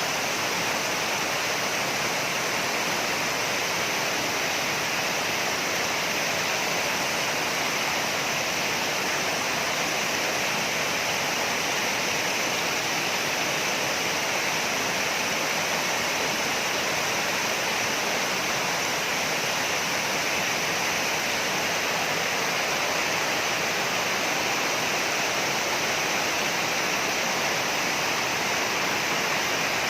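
Waterfall crashing into its pool: a steady, unbroken rush of falling water.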